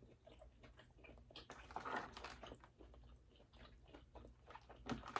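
Quiet, close-up eating sounds of a person chewing seafood from a crawfish boil: scattered small wet clicks and crackles of the mouth and lips.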